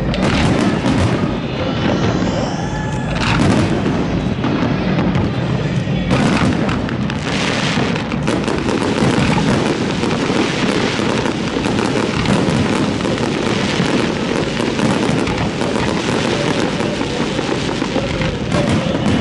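Fireworks display: a dense, continuous run of shell bursts and booms. About two seconds in, a rising whistle is heard as a whistling shell climbs.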